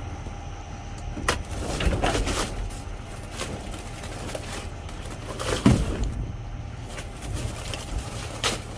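Rummaging through trash in a dumpster: a few sharp clatters and rustles, the loudest about halfway through, over a steady low rumble.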